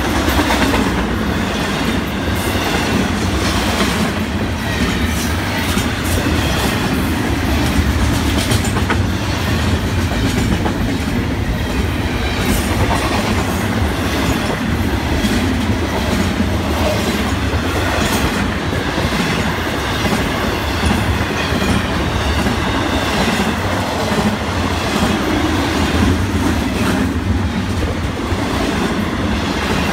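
Florida East Coast Railway intermodal freight cars (double-stack container well cars and trailer flatcars) rolling past close by: a loud, steady rolling noise with wheels clicking over the rail joints.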